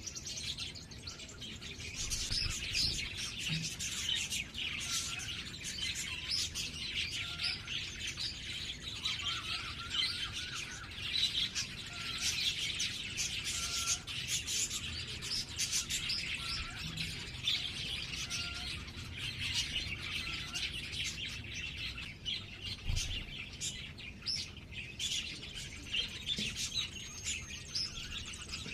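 Birds chirping continuously in a dense, busy chorus of quick high chirps, with a short lower note repeating every second or two.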